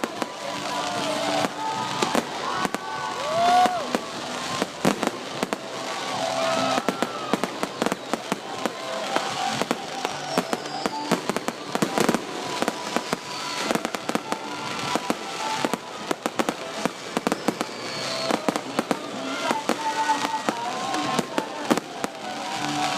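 Fireworks display: a dense, continuous run of aerial shell bangs and crackles, with several whistling rockets gliding up and down in pitch.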